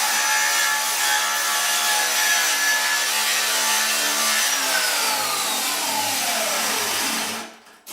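Electric grinder grinding down weld beads on a steel fuel tank, the disc rasping on the metal over the motor's steady whine. A little past halfway it is switched off and the whine falls in pitch as the motor spins down, stopping near the end. Awful noisy.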